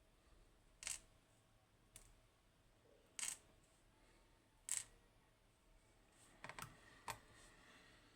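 Small metal lock parts clicking as a Goal Z pin tumbler lock is taken apart: about seven short, sharp clicks, spaced out at first and bunched together near the end.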